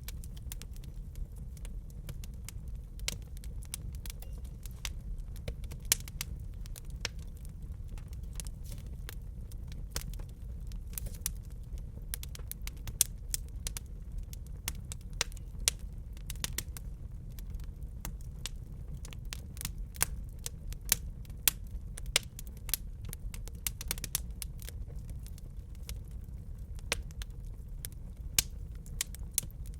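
Wood fire crackling, with irregular sharp pops, a few of them loud, over a steady low rumble.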